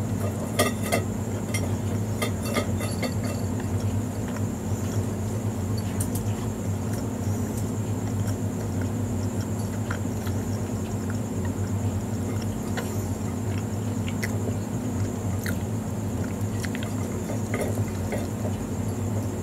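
A person chewing a soft-bun burger, with scattered wet mouth clicks and smacks, over a steady low hum.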